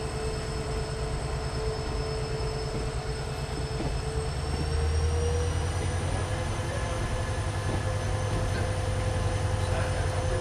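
A passenger train hauled by an EMD WDP4 diesel locomotive, heard from on board as it runs. There is a steady low rumble, and a thin whine rises a little in pitch and loudness about halfway through.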